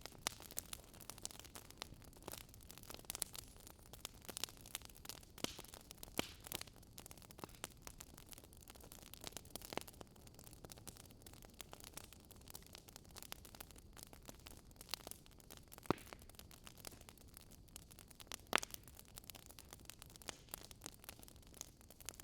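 Burning wood crackling and popping in a campfire, with irregular sharp snaps over a faint steady hiss and a couple of louder pops.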